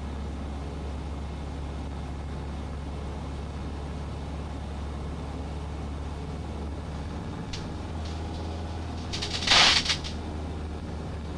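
Cessna 150's four-cylinder Continental O-200 engine droning steadily in the cockpit, heard as a low, muffled hum; the drone shifts slightly about seven and a half seconds in. A short crackle sounds about nine and a half seconds in.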